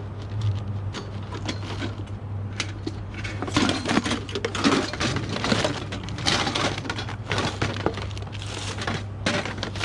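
Dumped household rubbish being rummaged through by hand: irregular clattering, clinking and rustling as items are moved and knocked together, over a steady low hum.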